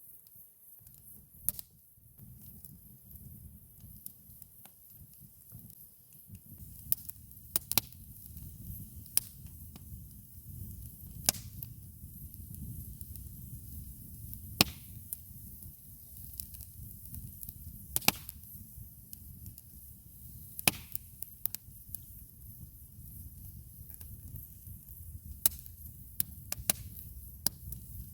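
Wood campfire burning: sharp, irregular pops and crackles every second or few seconds, over a low steady rumble.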